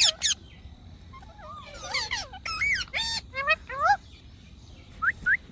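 Indian ringneck parrot calling: a sharp call at the start, then a run of short squawks and chattering notes that arch up and down in pitch, and two short rising notes near the end.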